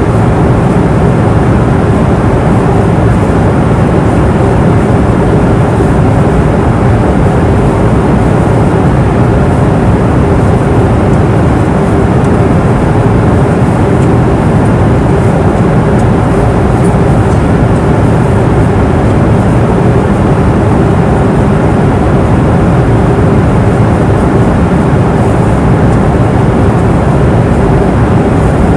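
Steady in-flight cabin noise of a passenger airplane: an even, unbroken rumble with a constant hum running through it.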